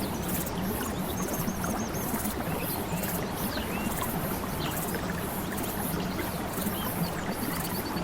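Water flowing steadily, with faint scattered bird chirps and short rapid trills over it.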